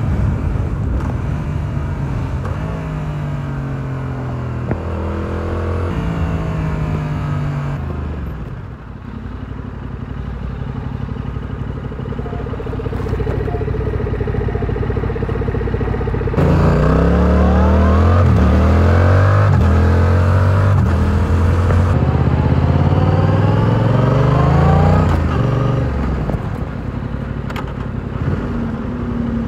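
Stock 2022 Yamaha R7's 689 cc parallel-twin engine and exhaust heard from the bike while riding: it accelerates through a few gears with upshifts, eases off about 8 seconds in, then pulls hard again about halfway through, revving up and shifting up several times before settling to a steadier cruise near the end.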